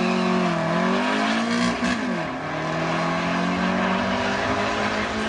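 Air-cooled flat-four engines of a VW Beetle and a split-screen VW bus accelerating hard in a drag race, revving up with the pitch dropping at gear changes about half a second and two seconds in, then running steadily at high revs as they pull away.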